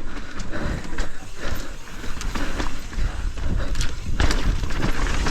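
Mountain bike riding over a rough dirt trail: wind rushing over the microphone and tyres on dirt, with irregular sharp knocks and clatter from the bike over bumps.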